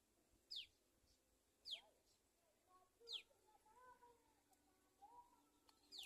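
A bird's short, high chirps, each falling sharply in pitch, four times at intervals of a second or more; faint.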